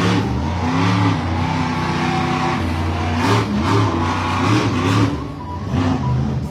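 Monster truck engine revving hard, its pitch rising and falling again and again under repeated throttle bursts, with several sharper surges in the second half.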